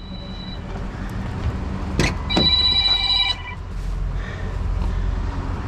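Phone ringtone ringing: a chord of high tones trails off about half a second in, then sounds again for about a second starting just after two seconds in. A sharp click comes just before the second ring, over a steady low hum.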